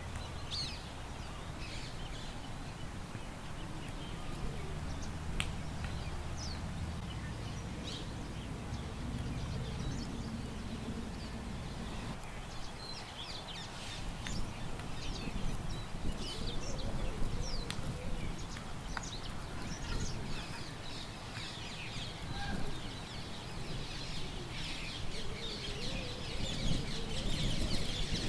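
Small birds chirping and twittering over a steady low rumble of wind; the chirping gets busier toward the end.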